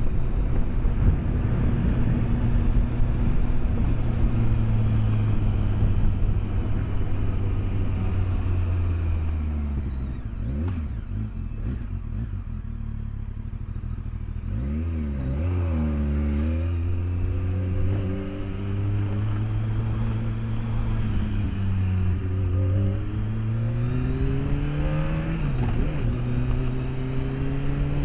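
BMW K1200S inline-four engine under way, heard through a helmet microphone with wind noise: cruising, then easing off with the note falling about nine seconds in, picking up revs again in steps and accelerating with a rising note near the end.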